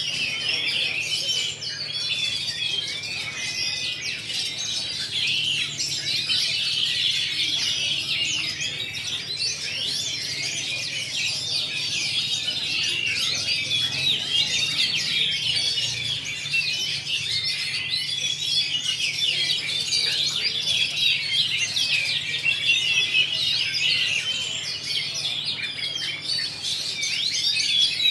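Several caged oriental magpie-robins (kacer) singing at once in a dense, continuous chorus of quick, high chirps and trills that overlap without a break.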